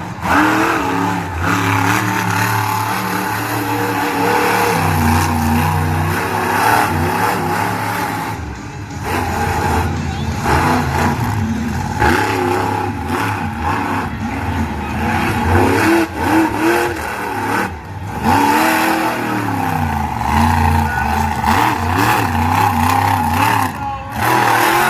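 Monster truck engine revving hard during a freestyle run, its pitch repeatedly climbing and falling as the throttle is worked, with brief drops when it lets off.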